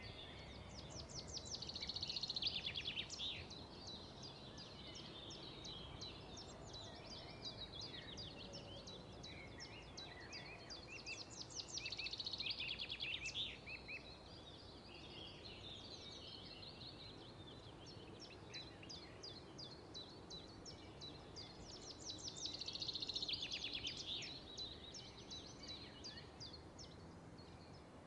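A bird singing a rapid, pulsing trill three times, about ten seconds apart, with fainter trilling between, over a steady background hiss.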